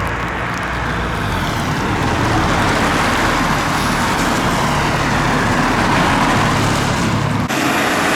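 Car engines and exhaust running as cars drive past, with an abrupt break in the sound near the end.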